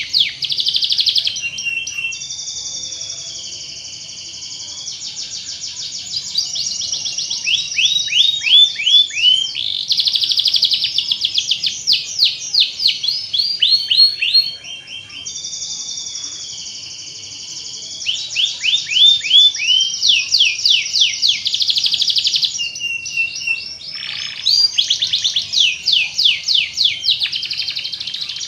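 Domestic canary singing a long, unbroken song of fast trills, quickly repeated downward-sweeping notes and held buzzy phrases. The same run of phrases comes round again about every fourteen seconds.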